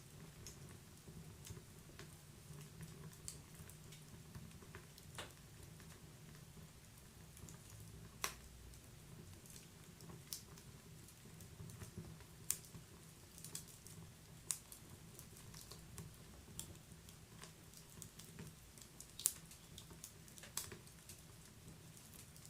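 Wood fire crackling in a fireplace: irregular sharp pops and snaps from burning logs over a soft low rumble of the flames, with the loudest pops about 8, 12 and 19 seconds in.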